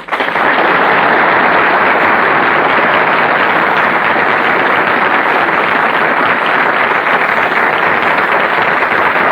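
Studio audience applauding: a dense, steady clapping that breaks out right after a musical number ends and holds at full strength, heard through a muffled, heavily compressed 1930s radio transcription.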